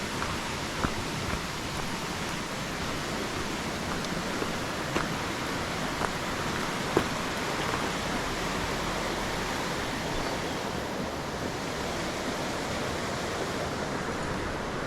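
Steady, even rushing outdoor noise, with a few sharp ticks about a second, five, six and seven seconds in.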